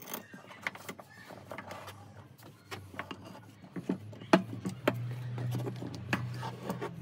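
Irregular clicks and knocks, the loudest about four seconds in, with a low steady hum coming up about four seconds in.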